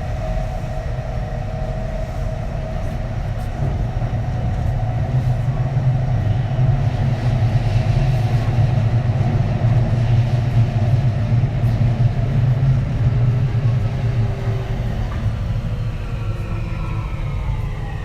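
Running noise of a Kintetsu 3220 series electric train heard on board: a steady rumble of wheels on rail that grows louder through the middle, over a constant motor tone. Near the end, the Hitachi IGBT VVVF inverter's whine starts gliding in pitch.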